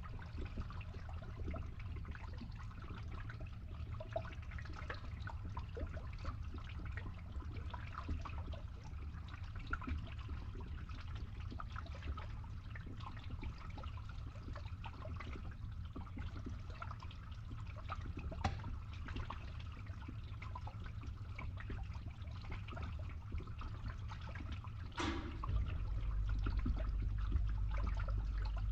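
Water trickling and splashing from a small DIY water pump, over the steady low hum of its small electric motor. About 25 seconds in there is a click, and the hum becomes louder.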